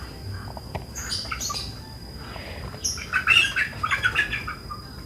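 Birds chirping: a few short high chirps about a second in, then a louder run of rapid chirps about three seconds in, lasting over a second.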